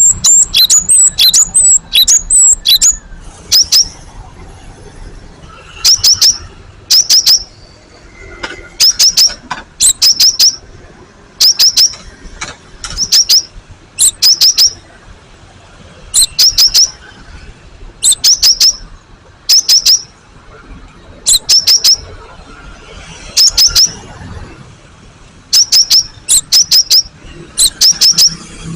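Cinereous tit (gelatik batu) singing loudly: a quick high twitter for the first few seconds, then phrase after phrase of three or four sharp, high notes repeated about once every second or so.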